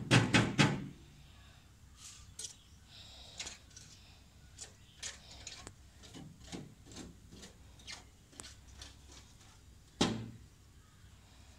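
Woodpecker pecking at a mirror: a quick run of about four loud knocks, then scattered fainter taps, and one more loud knock near the end.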